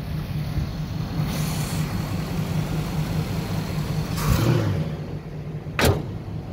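1967 Chevrolet Camaro's small-block V8 idling steadily, with a brief louder swell a little past four seconds. A single sharp knock comes near the end.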